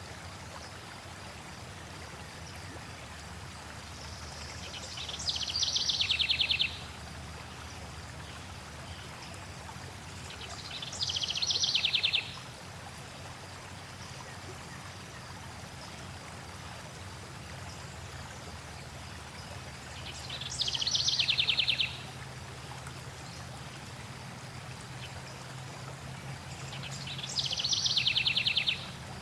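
Steady flowing stream water. Over it a songbird sings a short, rapid, high trill four times, each about two seconds long and several seconds apart, louder than the water.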